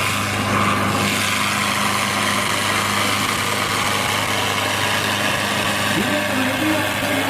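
Tractor diesel engine idling steadily, a constant low hum with an even tone throughout.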